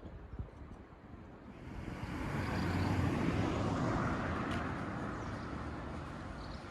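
A vehicle passing by: a rushing noise that swells about two seconds in and slowly fades away.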